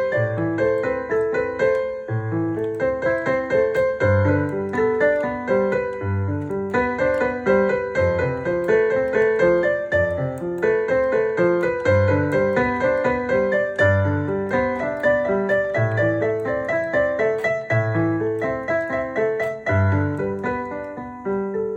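Digital piano sound from a synthesizer keyboard, playing a pop song's melody over chords, with a low bass note struck about every two seconds.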